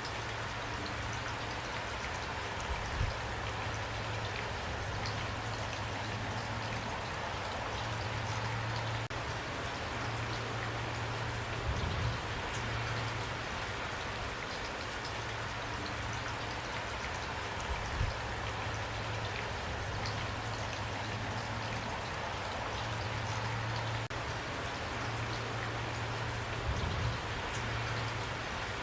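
Steady rain falling, with individual drop hits over an even hiss and a low steady hum beneath. A few soft low thumps come through at scattered moments.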